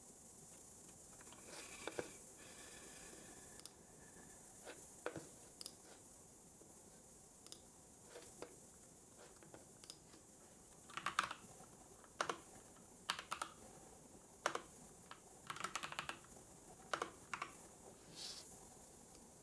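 Computer keyboard typing in short, scattered runs of keystrokes, sparse at first and coming in tighter clusters in the second half, over a steady faint hiss.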